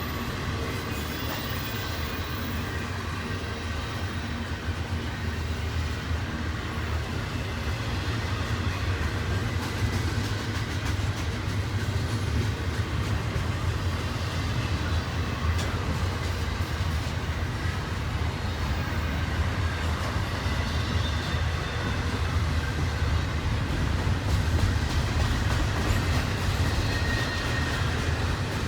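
Intermodal double-stack freight train rolling past, a steady rumble of car wheels on the rails.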